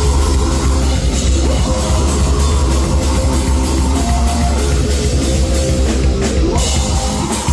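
Heavy metal band playing live at full volume: pounding drums over a dense, distorted wall of sound with a heavy low end.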